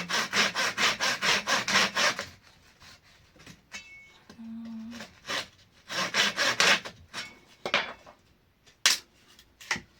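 Hand saw cutting a wooden board in quick back-and-forth strokes: a run of about two seconds, a pause, then a shorter run later on, followed by a single sharp knock near the end.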